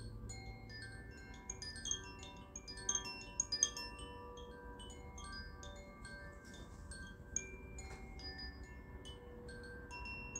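Chimes tinkling: many small metal notes struck irregularly at different pitches, ringing on and overlapping, with no steady beat, busiest a few seconds in.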